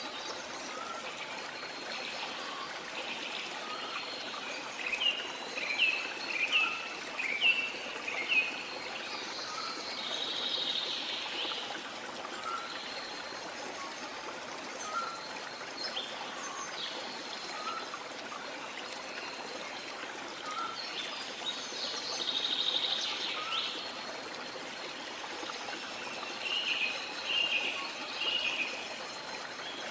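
Steady rush of running water with birds calling over it: a run of short, sharp chirps about five to nine seconds in and again near the end, a soft note repeated about once a second, and a buzzy call twice.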